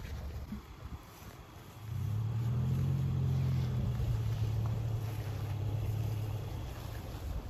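Subaru Forester's flat-four boxer engine running with a steady low hum as the car drives along a muddy trail. The engine comes in about two seconds in and eases off near the end.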